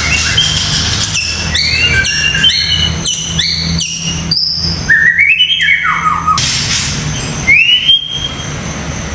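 White-rumped shama (murai batu) singing a loud, varied run of short whistled notes and quick rising and falling glides in rapid phrases. A steady low hum runs underneath.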